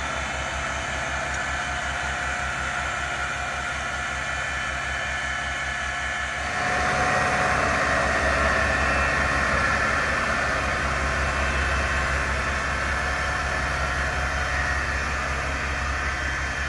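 Zetor tractor's diesel engine running steadily at work, with an even low throb. About six and a half seconds in it grows louder and stays up.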